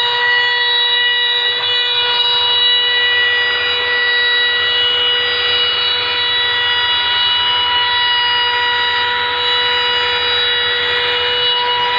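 CNC router spindle running with a steady high-pitched whine while its bit cuts into oak, a rough cutting hiss under the whine.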